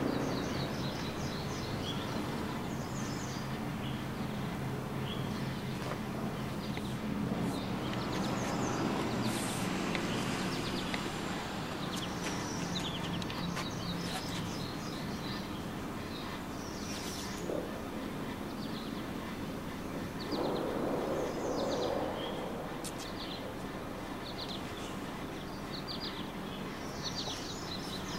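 Outdoor ambience: small birds chirping on and off over a steady low hum. There is a brief rustling noise about twenty seconds in.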